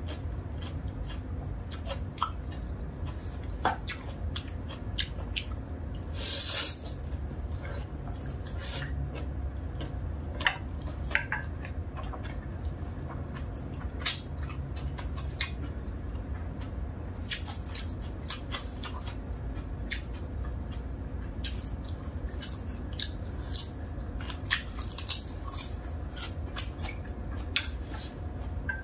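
Close-miked eating: chewing and biting of stir-fried instant noodles and pork balls, with short sharp clicks scattered throughout and one louder burst of noise about six and a half seconds in, over a steady low hum.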